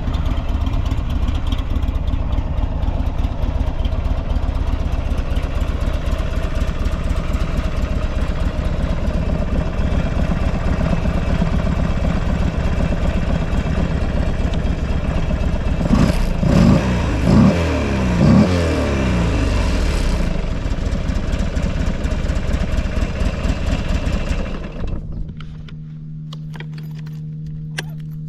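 Buell XB12 Lightning's air-cooled V-twin idling steadily, blipped three times about sixteen seconds in, with no abnormal noises: the seller calls the engine very quiet. Near the end the engine is switched off and a quieter steady hum remains.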